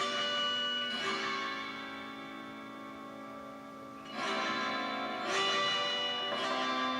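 Autoharp chords strummed and left to ring through delay and reverb. A fresh strum comes about a second in, then two more around four and five seconds in, each fading slowly between strums.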